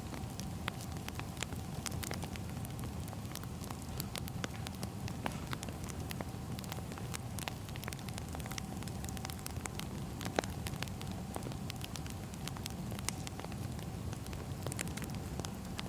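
Wood fire burning, crackling with many small irregular pops over a steady low rumble, with a faint steady hum underneath.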